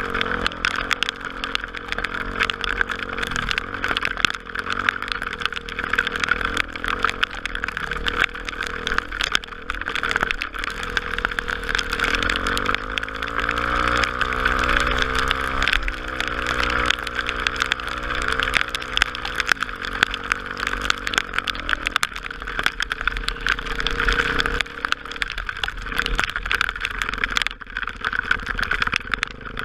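Honda Tornado 250 motorcycle's single-cylinder engine running on the move, rising in pitch about twelve seconds in and easing back down some seconds later as the rider speeds up and then slows.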